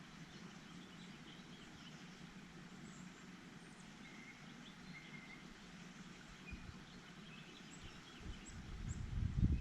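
Small birds at a feeder giving short, faint chirps and calls, over a steady low hum. Near the end a louder low rumble builds up.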